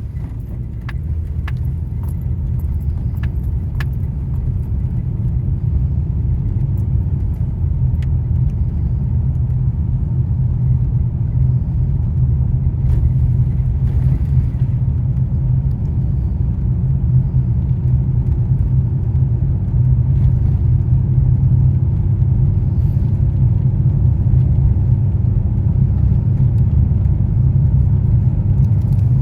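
Car driving on the road, heard from inside: a steady low rumble of tyres and engine that grows slowly louder as it goes, with a few light clicks or jingles in the first few seconds.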